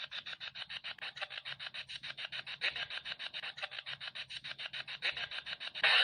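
EVP ghost-box radio sweeping through stations, giving a fast, even chatter of static pulses, about nine a second. The chatter grows louder near the end.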